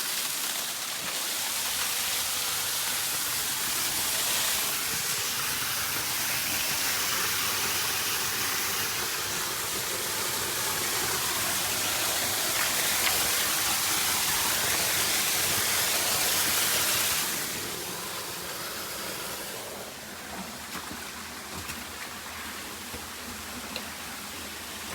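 Waterfall: a steady, loud rush of falling water that drops off sharply about two-thirds of the way through as the listener moves into the cave behind the falls, where it goes on quieter and duller.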